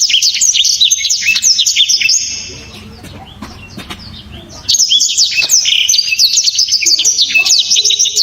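Blackthroat (black-throated canary) singing in two loud bursts of fast, high, trilled notes: one about two seconds long at the start, and a longer one of about four seconds beginning past the halfway mark.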